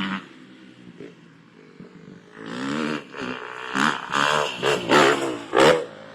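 Motocross dirt bike engines revving in a run of short bursts, each rising and falling in pitch, starting about two seconds in after a quieter stretch of engine noise.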